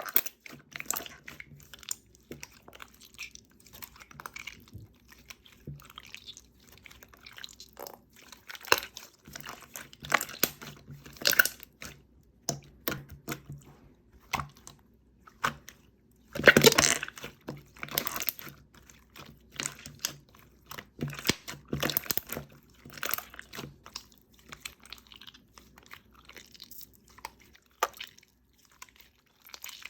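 Jiggly slime being squeezed and poked by hand, making irregular wet clicks and pops, with a louder cluster of pops about halfway through.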